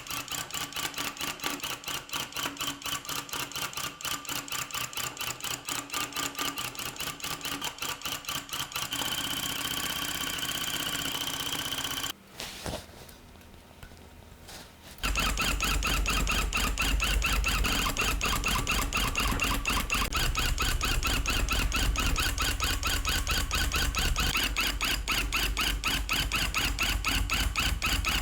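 Electric rug-tufting gun running, its needle punching yarn through the backing cloth in a fast, even mechanical rhythm. It stops for about three seconds near the middle, then starts again louder, with a deeper rumble.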